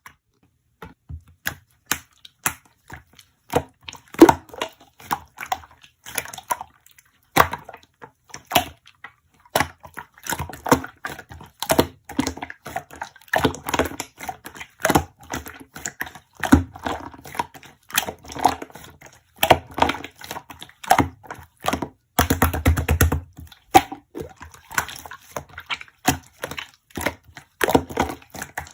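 Slime being squeezed and pressed by hand, giving a dense run of sharp clicks and pops as air pockets burst, with a quick rattling burst of pops a little past two-thirds of the way through.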